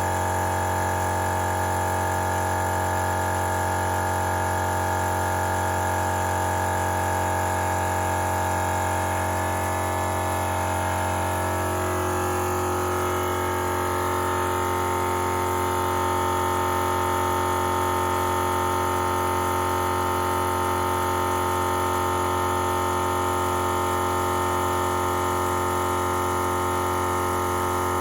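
Napa Maxi Trac 12-volt portable air compressor running steadily under load, inflating a large off-road tire, with a constant motor hum and pump drone. Its tone shifts a little about halfway through as pressure in the tire builds.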